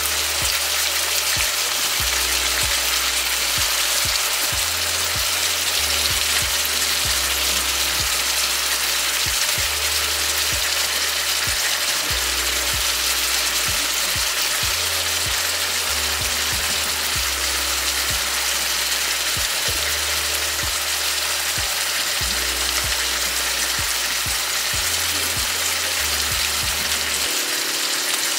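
Chicken pieces and sliced onion sizzling steadily in hot oil in a wok, with a low bass line of background music underneath.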